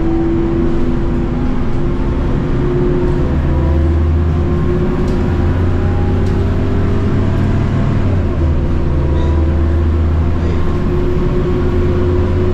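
Scania DC9 five-cylinder diesel of a Scania K230UB bus pulling hard under full throttle, heard from inside the bus, its note climbing steadily. About eight seconds in the note breaks and drops as the ZF Ecomat six-speed automatic upshifts, then climbs again.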